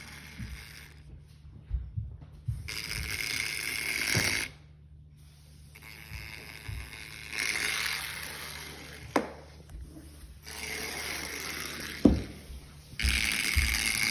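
Remote-control Tesla Cybertruck's electric drive motor whirring in four bursts of a second or two each, with a steady whine in every burst. Sharp knocks come between the bursts.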